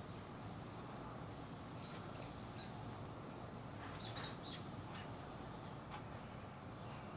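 Robins giving short, sharp high calls, a few faint chirps and then a louder cluster of calls about four seconds in, over a steady background hiss.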